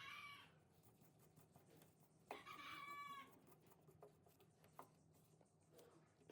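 Faint chicken calls: two drawn-out calls, the second about two and a half seconds in and lasting about a second, over a low steady hum with a few faint clicks.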